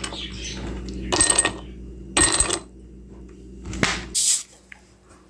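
Mirinda soda bottle and glass being handled: a few short clinks and knocks, then a brief hiss about four seconds in.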